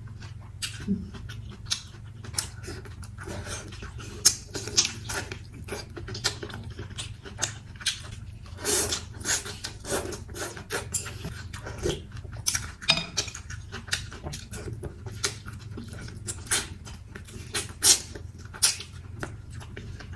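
Close-up eating sounds: irregular wet chewing and smacking on a piece of chicken, with occasional clinks of utensils against the bowl, over a steady low hum.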